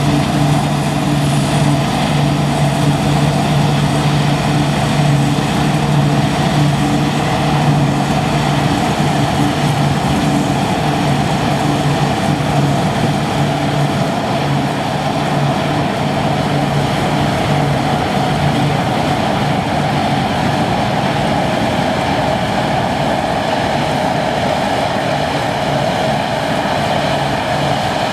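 Deutz Fahr Topliner 4090 HTS combine harvester running steadily at work, its engine hum fading about two-thirds of the way through while the rest of the machinery noise carries on.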